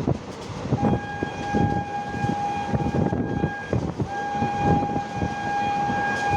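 Train horn sounding in two long, steady blasts with a short break between them, over the rumble and knocking of a train running on the track.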